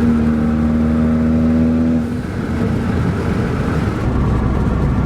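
Straight-piped Mercedes CLA45 AMG turbocharged four-cylinder exhaust running at a steady held pitch for about two seconds, then easing off, with the engine note picking up again at a steady lower pitch near the end.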